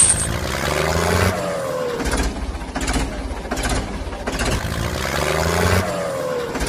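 A vehicle engine revving and running. Its pitch falls away near the start and again near the end, with a regular chugging in between.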